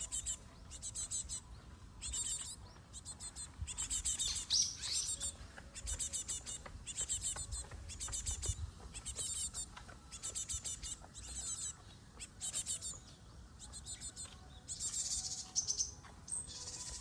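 Asian tit chicks calling: short bursts of rapid, high chirps that repeat about once a second.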